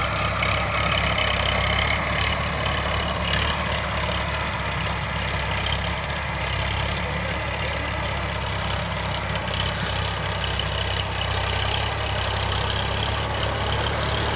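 Sonalika DI 745 tractor's diesel engine running steadily at an even, unchanging speed.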